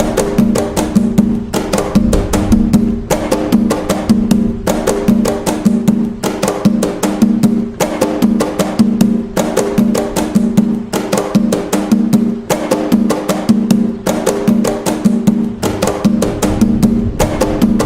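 Atabaque hand drums playing the toque nagô rhythm of Umbanda: a dense, steady pattern of pitched drum strokes repeating about every second and a half.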